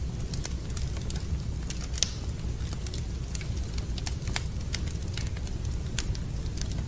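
Wood fire crackling in a fireplace: irregular sharp pops and snaps, the strongest about two seconds in, over a steady low rumble.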